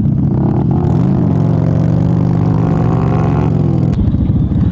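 Motorcycle engine running on the move, its pitch rising about a second in, holding steady, then easing off, with an abrupt change in the engine sound near the end.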